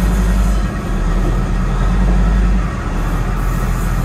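Diesel railcar running along the track, heard from inside the car: a steady deep engine rumble with wheel and rail noise. The deepest rumble eases a little near the end.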